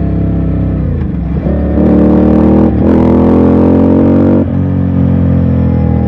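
Ducati Scrambler's air-cooled L-twin engine under way: the engine note eases off, then about a second and a half in the throttle opens and it accelerates, with a brief break for a gear change near the middle. The throttle closes sharply about four and a half seconds in, and the engine settles to a lower, steady note.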